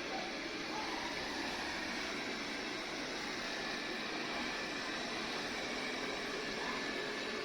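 Robot vacuum running with a steady whirring hiss from its suction fan.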